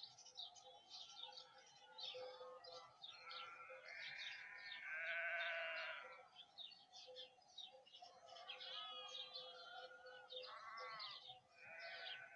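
A flock of ewes bleating, several long wavering bleats overlapping, the strongest about five seconds in, from sheep in labour during lambing. Small birds chirp and sing throughout.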